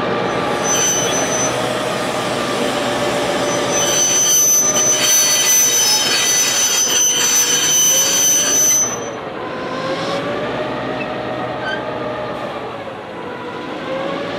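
T-class diesel locomotives crawling past under load, their engines droning with a slowly wavering pitch. From about four seconds in, the wheels squeal with a high ringing whine that cuts off abruptly near nine seconds.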